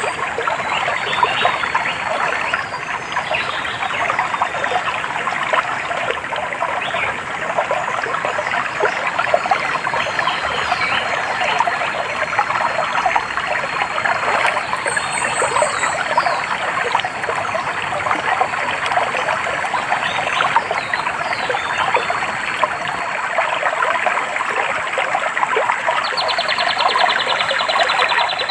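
Stream water trickling and splashing steadily. A few short, high, rapid bird trills come over it, one about halfway through and one near the end.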